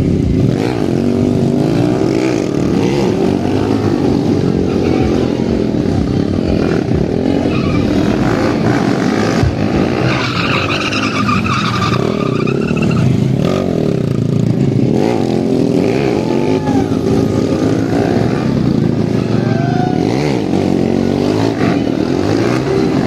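Motorcycle engines revving up and down over and over during stunt riding, with tyres squealing at times.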